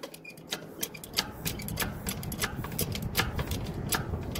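Lifting gear clicking in short, irregular ticks, three or four a second, as a truck is raised off its jack stands, over a low rumble underneath.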